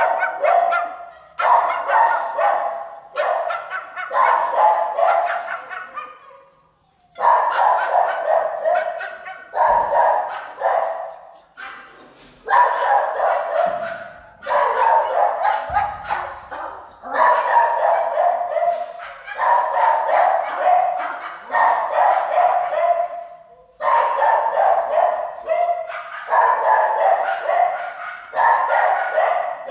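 Shelter dogs barking in rapid, nearly continuous runs, each bark trailing off in an echo, with short lulls about seven seconds in and again near the end.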